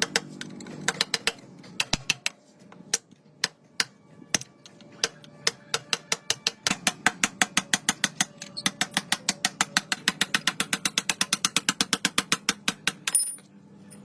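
A series of sharp mechanical clicks: scattered at first, then a fast, even run of about six a second for the last several seconds, stopping shortly before the end.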